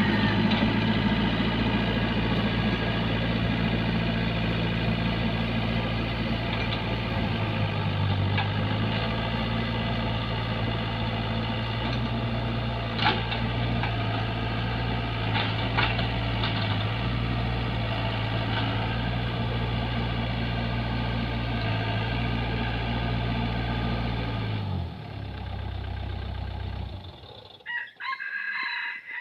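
Engine running steadily, then slowing and stopping about 25 seconds in. A rooster crows in the background.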